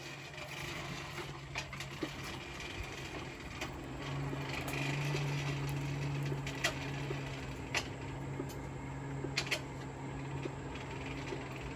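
Coal forge's air blower running with a steady low hum that grows louder about four seconds in, with a few faint clicks and no hammer blows.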